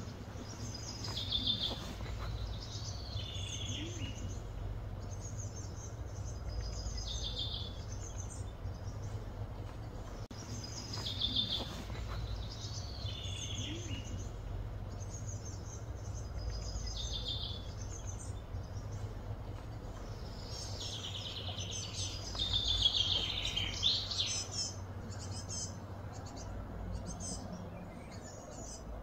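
Songbirds singing, one short song phrase repeated about every one and a half seconds, with a louder, busier stretch a little over twenty seconds in, over a steady low outdoor rumble.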